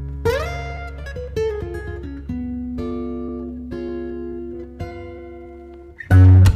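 Music on a plucked acoustic guitar: single notes ringing out over a sustained low note, with a loud bass-heavy strum near the end.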